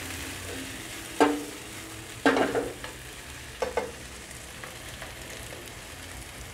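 Sliced chicken sausages sizzling in oil in a nonstick wok, stirred with a spatula that knocks against the pan three times in the first four seconds, the middle knock the loudest. After that, only the steady sizzle.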